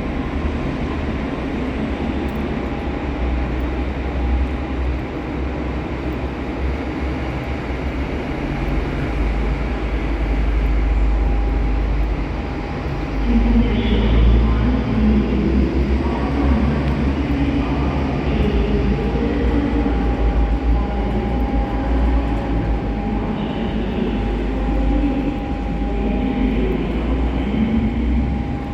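Train at a station platform: a steady low rumble with a steady electric whine over it. From about halfway on, a faint murmur of voices joins in.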